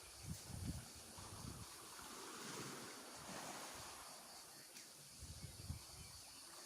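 Wind buffeting the microphone in low gusts, strongest about half a second in and again near the end, over a faint steady hiss.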